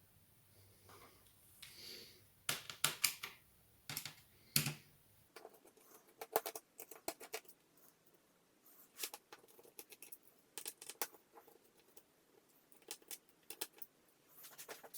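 Irregular small clicks, taps and metallic clinks of a screwdriver working the hinge screws of a laptop and of small screws being handled, the loudest cluster between about two and five seconds in.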